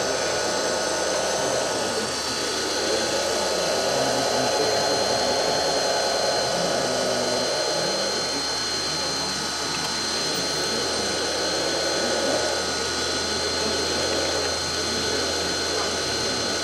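Radio-controlled model excavator's motors and pump whining steadily, the pitch rising and falling in several swells of a few seconds as it works.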